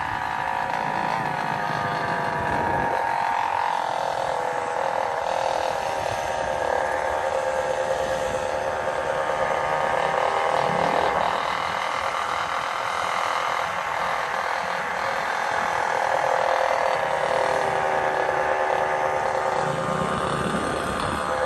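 Small gas engine running at steady high revs while being ridden, its pitch easing up and down a little with the throttle.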